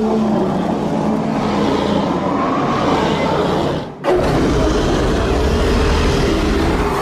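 Bear growls layered and processed into a creature sound effect: one long growl, then after a brief dip about four seconds in, a second, deeper growl.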